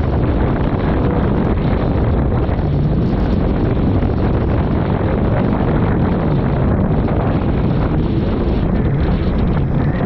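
Jet ski under way: its engine running steadily, mixed with heavy wind noise buffeting the microphone.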